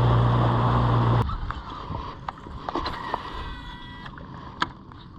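Jon boat's motor running steadily with wind rush, cutting off abruptly about a second in; afterwards only scattered small clicks and faint thin chirps.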